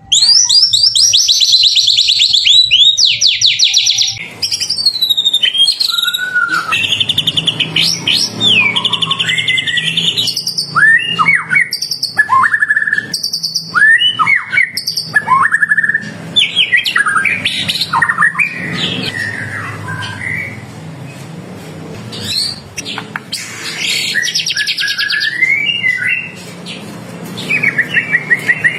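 White-rumped shama singing loudly and without pause. It opens with a fast rattling trill, then runs through varied whistles and chirps, many slurring downward, with further rapid trills later on.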